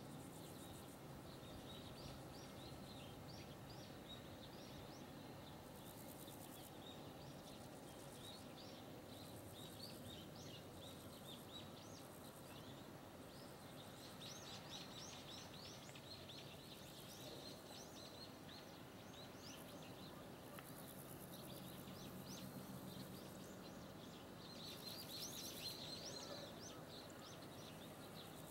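Faint chirping of small birds in quick twittering runs, busiest around the middle and near the end, over a faint steady low rumble.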